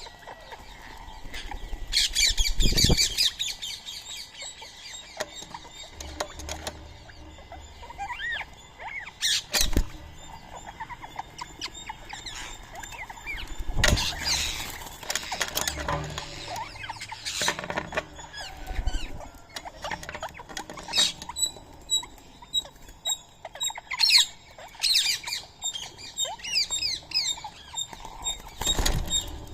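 Birds chirping and calling over each other in many short high notes and quick glides, with scattered sharp taps.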